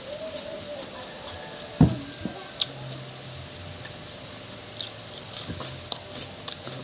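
A person eating during a mukbang: chewing with scattered small sharp clicks, and one louder knock about two seconds in.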